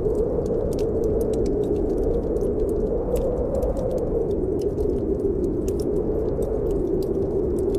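Wood fire crackling in a fireplace, with frequent irregular sharp ticks and pops, over the steady low rush of snowstorm wind that swells and eases slightly.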